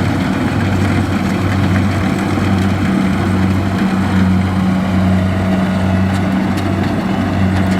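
Engine of a Kubota DC-70 rice combine harvester running steadily, a loud, even low hum.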